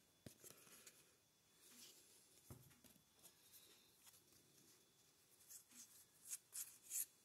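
Faint handling of trading cards: soft rustles and light clicks as the cards are slid and shuffled, a little busier near the end, with near silence between.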